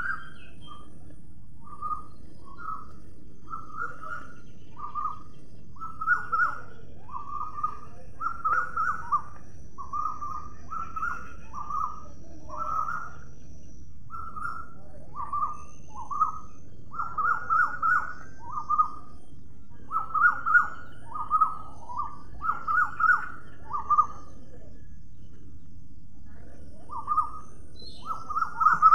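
A bird calling over and over in short, slightly falling notes, about one or two a second, with a pause of a few seconds near the end.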